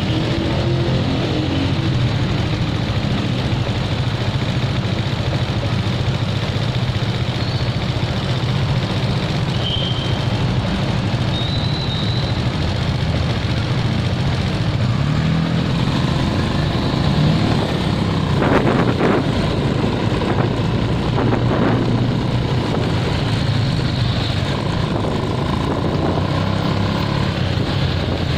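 Motorcycle engine idling steadily amid the engine noise of surrounding street traffic, with two short sharp sounds a little past halfway.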